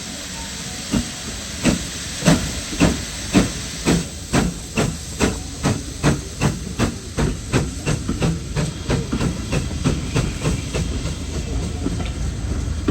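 Steam locomotive pulling away: a hiss of steam, then exhaust chuffs starting about a second in, slow at first and quickening to about three a second as it gathers speed.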